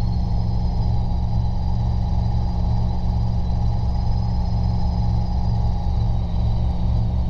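Cabin noise of a Robinson R22 helicopter in flight: the steady drone of its rotor and four-cylinder Lycoming piston engine, with a faint steady high whine above it.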